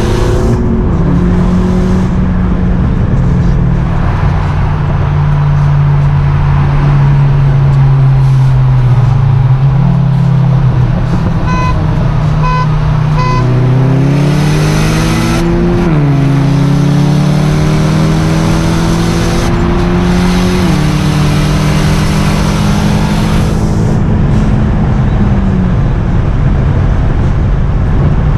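Turbocharged VW 1.8T four-cylinder engine under load, heard from inside the car. It runs fairly steadily at first, then climbs in pitch, drops sharply at a gear change just past halfway, climbs again and holds before falling off near the end. Four short beeps, about two a second, come a little before halfway.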